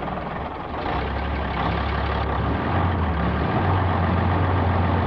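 Truck engine revving under load, its low note stepping up about a second in and again near the middle, growing louder.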